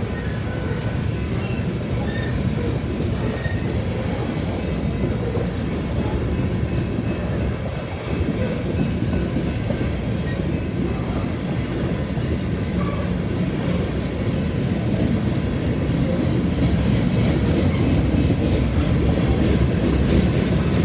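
Empty coal hopper cars of a long freight train rolling past, a steady rumble and clatter of steel wheels on rail.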